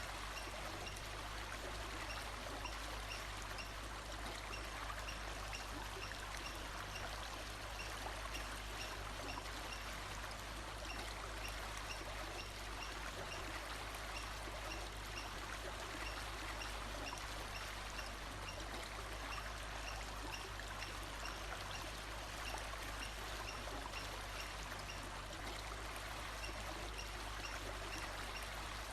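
Flowing stream water running steadily, with a faint high note repeating at an even pace above it.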